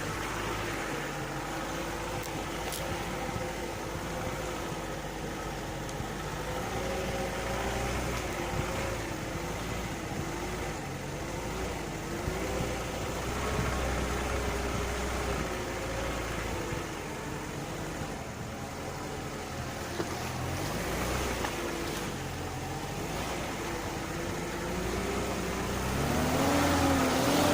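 Lada Niva engine running under load while driving off-road, its note rising and falling with the throttle and revving higher near the end.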